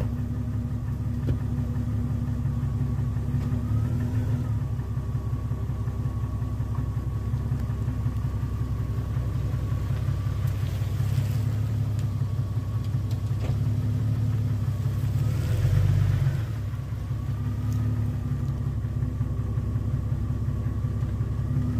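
2001 Jeep Cherokee XJ's 4.0 straight-six running at idle, rising briefly twice, about four seconds in and again around fifteen to sixteen seconds, as the Jeep creeps a little in reverse and then back forward. This is the first move on a freshly installed AW4 automatic transmission.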